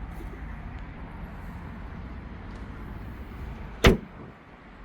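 Front trunk lid of a Zeekr 7X being shut: a single sharp thud near the end, over a steady low background noise.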